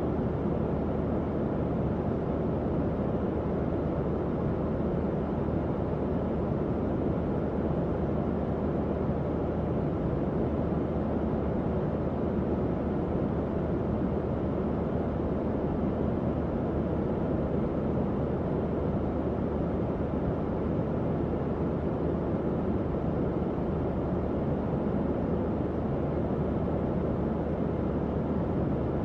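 Tower fan running steadily: an even, low whooshing noise with a faint hum, unchanging throughout.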